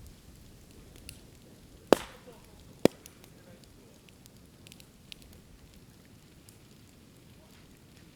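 Bamboo burning in a bonfire: two sharp bangs about a second apart, about two seconds in, as bamboo sections burst in the heat, with light crackling of the fire around them.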